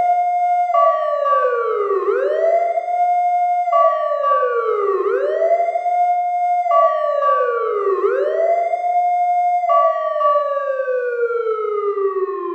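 Fire truck siren wailing, rising quickly and falling again about every three seconds. Near the end it stops rising and slowly winds down in pitch.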